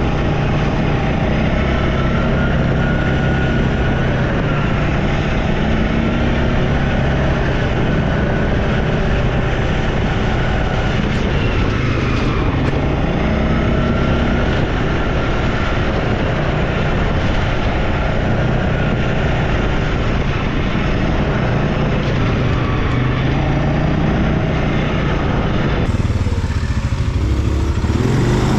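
ATV engine running steadily as the quad is ridden along, its pitch rising and falling a little with the throttle.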